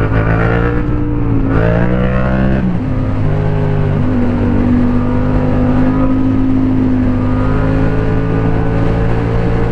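Motorcycle engine under way: it revs up about a second and a half in, drops at a gear change a second later, then runs at a steady, slowly climbing pitch while cruising.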